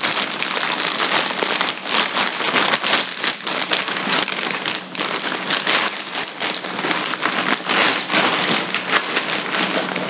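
Packaging crinkling and rustling continuously as a parcel is unwrapped by hand, a dense run of small crackles.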